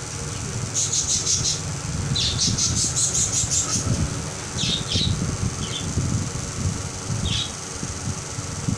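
A small bird chirping in quick high trills, with a few shorter chirps later, over the low murmur and shuffle of a crowd inside a large hall.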